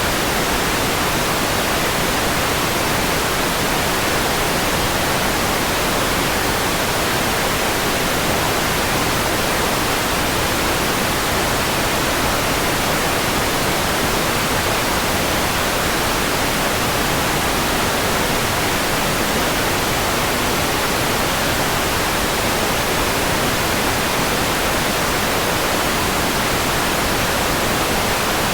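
Steady white noise: an even, unchanging hiss across the whole range of pitch.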